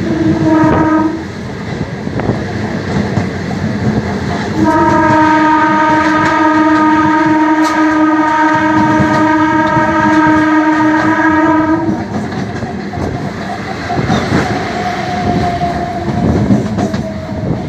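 Train horn sounding one short blast, then a long steady blast of about seven seconds, over the rumble and clickety-clack of the train running on the rails.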